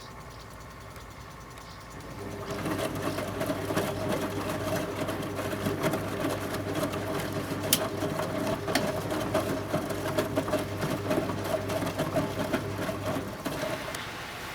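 1974 Zoppas Superautomatic 242 washing machine starting up about two seconds in and running with a steady hum and a dense clicking rattle, then stopping about a second before the end: a run of the drum on its 80°C white-wash programme.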